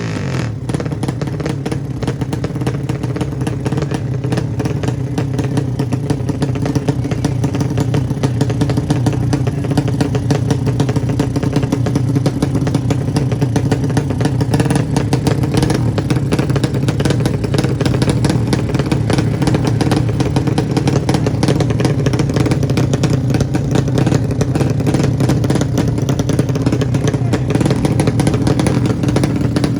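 Motorcycle engine running at a steady speed throughout, holding one even pitch.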